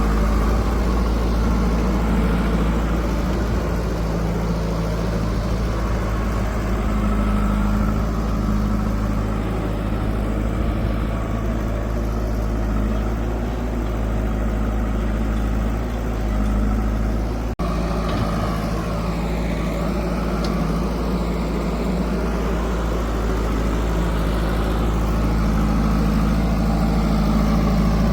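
Diesel engine of a JCB 3DX backhoe loader running steadily as it works, with a brief dropout about two-thirds of the way through.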